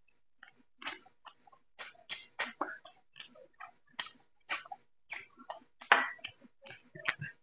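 Close-miked eating sounds as rice and chicken curry are eaten by hand: wet chewing and mouth smacks in an irregular run of short clicks, a few a second, with one louder smack near the end.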